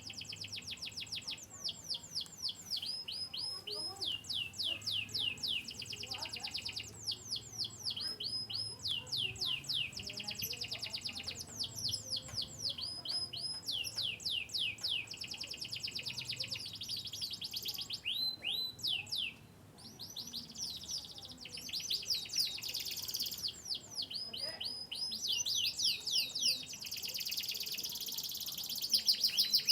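Canary singing a long song of rapid trills. Each trill is made of quick, repeated downward-sweeping notes, grouped in phrases a few seconds long, with a brief pause a little past halfway.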